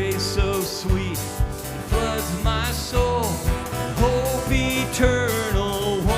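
Worship band music with a steady drum beat about twice a second, guitars and a sliding lead melody line, with no words heard.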